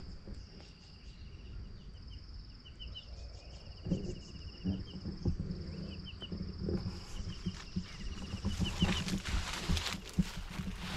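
Forest insects chirring in a steady, pulsing high drone, with short chirping trills repeated over it. From about four seconds in come irregular low thuds and rustles.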